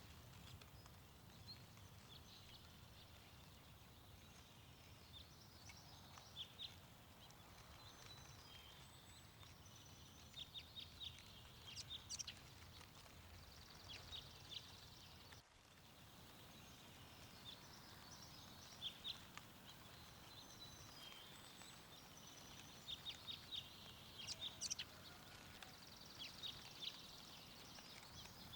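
Faint songbirds chirping in short, quick clusters of high notes, over a soft low wind rumble. The sound drops out for a moment about halfway through.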